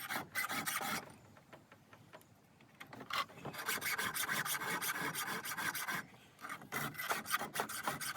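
Hand file rasping across the cutters of a 3/8-pitch chainsaw chain, sharpening it with quick repeated strokes. The strokes stop between about one and three seconds in, then run on with a brief break near six seconds. The cutters being filed had been rounded off by hitting rot in a log, and the filing brings their edges back.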